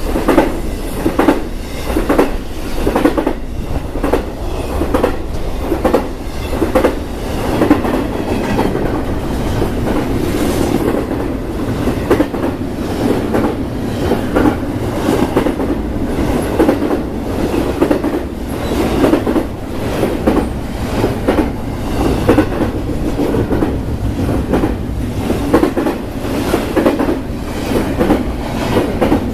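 BNSF intermodal freight train rolling past, its steel wheels clacking over rail joints in a repeated rhythm over a continuous rumble.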